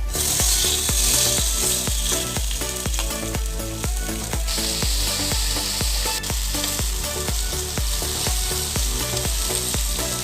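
Food frying in a hot pan, a steady sizzle that starts suddenly and grows stronger about four and a half seconds in, over background music with a steady beat.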